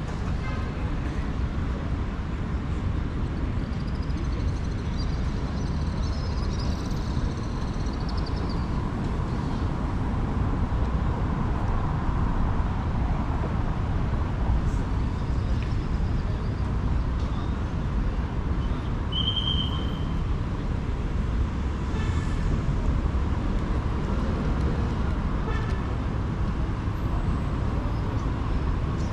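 City street traffic: a steady rumble of passing vehicles, with a short high-pitched toot about two-thirds of the way through.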